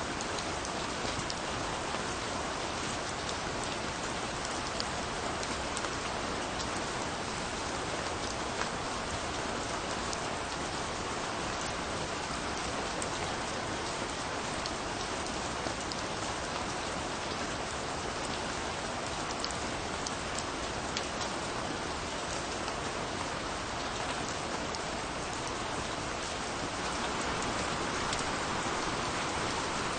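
Steady rain falling on a surface, a dense even hiss with the patter of individual drops; it swells slightly louder near the end.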